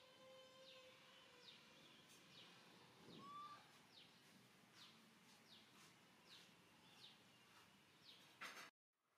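Faint bird calls: short falling chirps repeated about twice a second over quiet background noise. Near the end a brief louder noise is followed by a sudden cut to silence.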